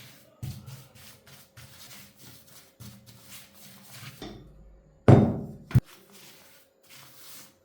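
Workshop handling sounds: scattered light knocks and rubbing of parts and tools, with one loud thud about five seconds in that cuts off sharply.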